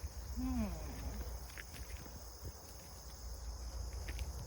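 Steady high-pitched drone of insects, with scattered footsteps and a low rumble underneath.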